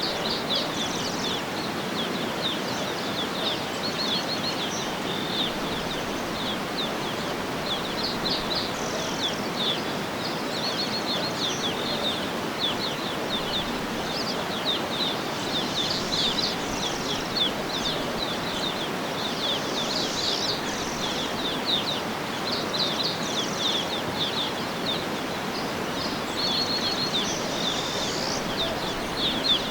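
Small birds chirping and trilling over a steady, even hiss of outdoor background noise, with many quick high chirps and short rapid trills.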